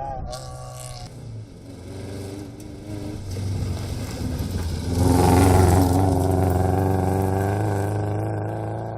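Rally car engine running hard as the car approaches, loudest about five seconds in, then fading slowly as it moves away.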